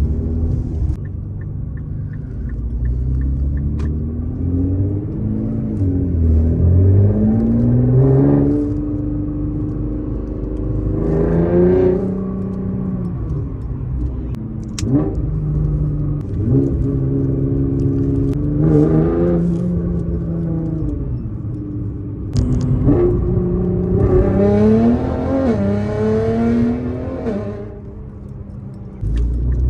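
Nissan GT-R engine heard from inside the cabin, accelerating hard in several pulls: its pitch climbs steadily through each gear and drops back at each shift. It eases off and goes quieter just before the end.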